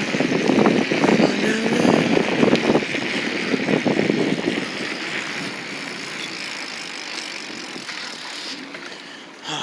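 Bicycle in motion, rattling and knocking over the ground with wind and tyre noise for the first few seconds, then growing steadily quieter.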